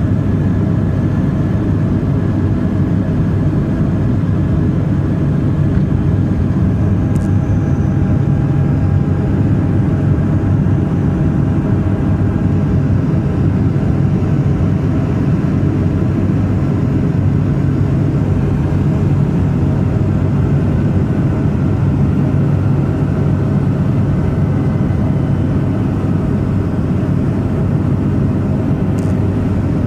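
Twin turboprop engines and propellers of a Let L-410 running steadily, a loud low hum with a few steady tones above it.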